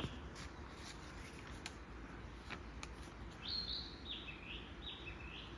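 A songbird calling: a run of three or four short, high, repeated phrases, each a held note followed by a dip and rise in pitch, starting about halfway in, with a few faint clicks before it.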